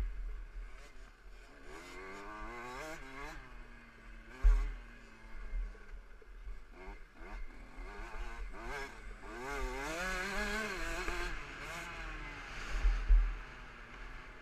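KTM 65 SX single-cylinder two-stroke motocross engine revving hard, its pitch climbing and dropping again and again as the bike accelerates, shifts and backs off around the track. Heavy low thumps hit the microphone about four and a half seconds in and twice near the end.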